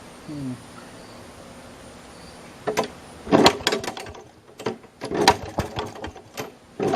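Maytag Model 92 single-cylinder two-stroke engine running quietly, then from about three seconds in firing in irregular, loud pops, running rough. The owner puts this down to a carburetor out of adjustment or an air leak at the engine's gasket.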